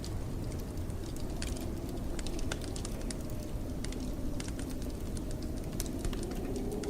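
Wood fire crackling, with irregular sharp snaps and pops over a steady low rumble of blizzard wind.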